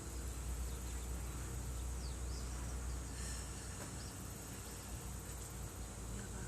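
Outdoor ambience: insects chirring steadily and high-pitched, over a low rumble that eases off after about four seconds.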